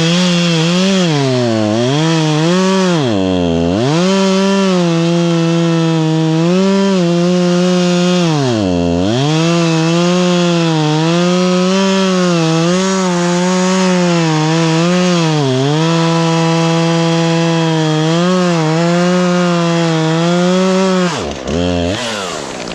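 Chainsaw running at high revs through a cut, its engine note sagging briefly again and again as the chain loads up in the wood, with two deeper drops a few seconds in and about nine seconds in. Near the end the throttle is released and the revs fall away to a lower, quieter running note as the cut finishes.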